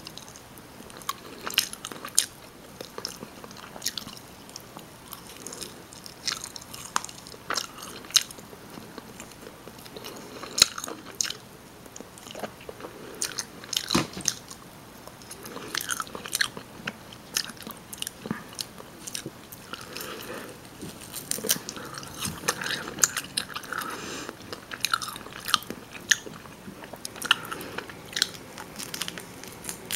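Close-miked chewing of rotisserie chicken: irregular wet mouth clicks, smacks and crunches.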